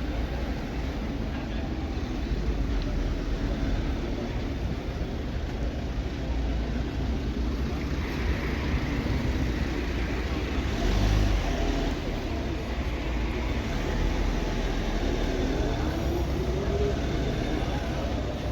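Street traffic with cars driving past. About three quarters of the way through, one engine note rises as a car accelerates.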